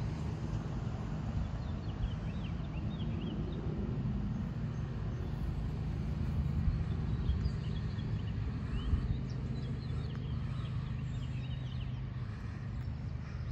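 Steady low hum of an idling car engine, with scattered short bird chirps over it.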